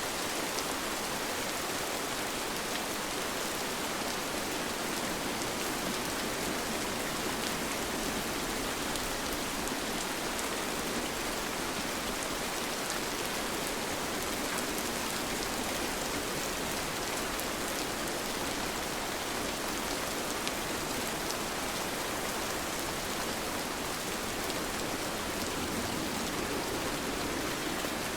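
Steady rain falling, an even hiss of rainfall with small drop ticks scattered through it.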